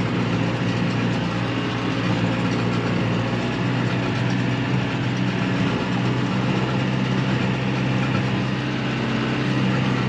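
Tractor engine running steadily with the mechanical clatter of a small square baler working behind it.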